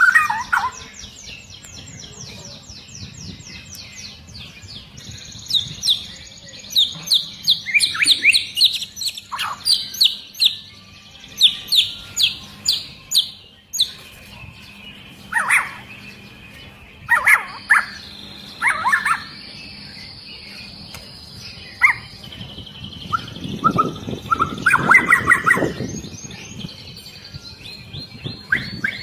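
White-rumped shama singing a varied song: fast runs of short, high, falling notes, loud whistled phrases, and a few held high whistles, with a dense chattering phrase near the end.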